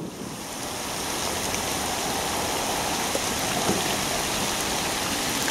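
Steady rain falling on a river's surface, an even wash of countless drops that fades in over the first second and then holds steady.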